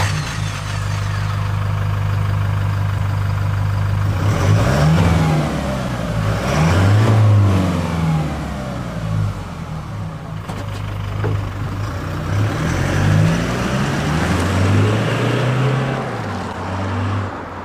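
Toyota Hilux GUN125's 2.4-litre four-cylinder turbo-diesel exhaust through a Ganador sport muffler on a mid-speed run. It holds a steady drone for the first few seconds, then rises and falls in pitch several times as engine speed changes, and fades out near the end.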